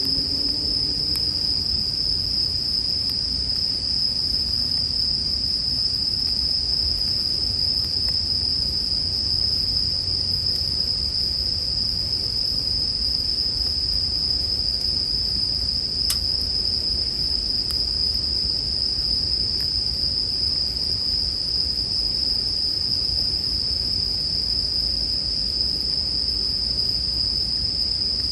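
Japanese bell crickets (suzumushi) singing in one continuous high-pitched trill, with a campfire crackling faintly underneath and an odd sharp pop.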